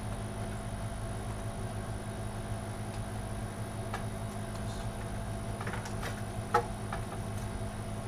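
Steady low background hum with a few scattered small clicks and knocks from handling computer parts and cables, the sharpest about six and a half seconds in.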